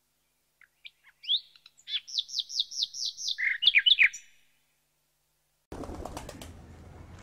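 A songbird singing: a few scattered high notes, then a quick run of about a dozen repeated downward-sliding whistles, ending in a few lower notes. After a short gap a rustling noise with a few clicks begins.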